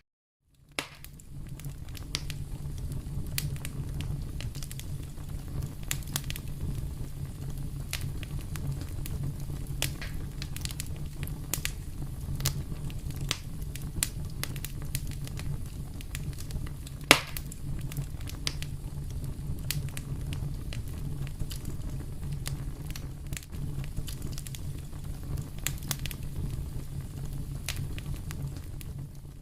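Wood fire burning in a fireplace: a steady low rumble of flames with frequent sharp crackles and pops throughout, the loudest pop about 17 seconds in. The sound drops out completely for a moment at the very start.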